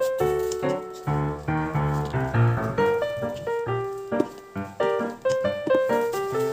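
Background piano music: a melody of quick notes over lower bass notes.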